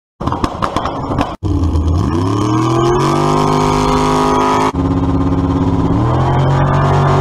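Drag car engine revving hard in cut-together clips: the revs climb steeply and then hold high, twice, with abrupt cuts between clips about a second in and near the middle.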